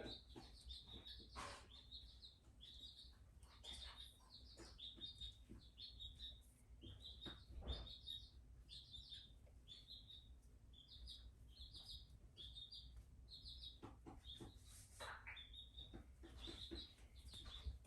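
Faint bird chirping: short high chirps repeated about one or two a second, with a few soft knocks in between.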